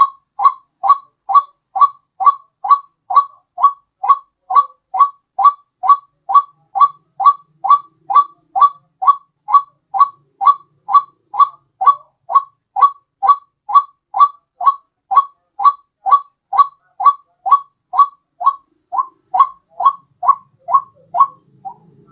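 White-breasted waterhen lure call: one short note repeated steadily about twice a second, dropping out briefly near the end.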